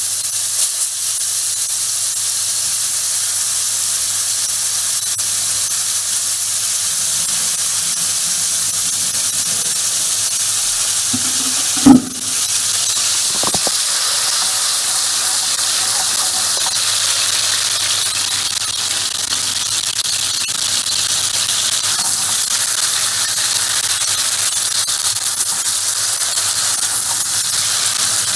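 Sliced button mushrooms sautéing in hot oil in a frying pan: a steady sizzle, with one sharp knock about twelve seconds in.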